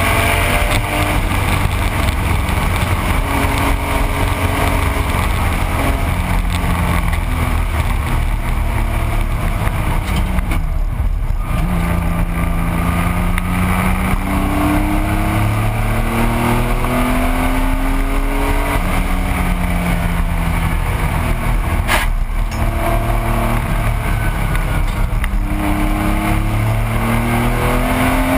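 1985 Porsche 911's air-cooled flat-six at race pace, heard from inside the car: its pitch climbs steadily through the revs and drops back at each gear change, about every ten seconds, over heavy road and wind rumble.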